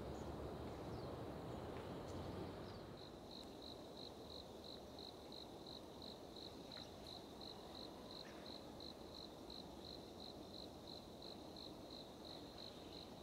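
An insect chirping in a steady rhythm, about three short high chirps a second, starting about three seconds in, over faint outdoor background noise.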